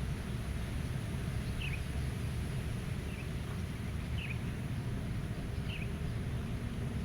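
Steady low wind rumble over a meadow, with a small bird giving four short, falling chirps about a second or so apart.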